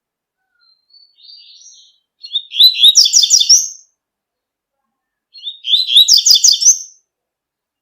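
Double-collared seedeater (coleiro) singing its 'tui-tui' song: two short phrases of rapid, repeated high notes about three seconds apart, after a softer twittering just before the first.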